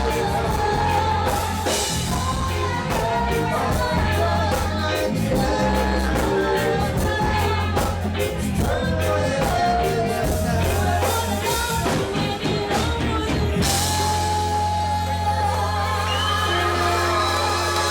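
Live reggae band playing with sung vocals over bass and drums. About fourteen seconds in the drums drop out, leaving bass and held chords.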